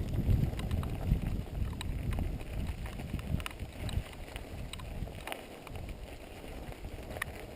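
Giant XTC composite hardtail mountain bike rolling over a dirt trail: rough tyre rumble with scattered rattling clicks from the bike, and wind on the microphone. The rumble eases off in the second half.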